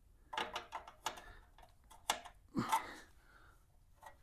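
Hand tools clicking and knocking on metal in short, uneven bursts as the bolts of a chrome wheel trim cover are tightened.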